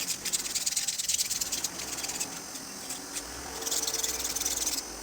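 Sandpaper rubbed quickly back and forth on the fan motor's shaft to clean off crusted dirt: a fast, dry scratching in runs, one at the start and another about three and a half seconds in, with quieter rubbing between.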